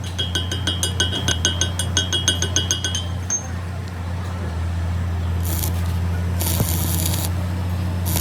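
Workshop machinery running with a steady low hum. For about the first three seconds it is joined by fast, even metallic ticking with a ringing tone, and there are short bursts of hiss near the end.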